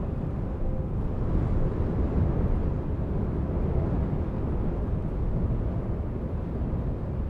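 Blizzard wind: a steady, low rumbling noise that rises and falls slightly in loudness.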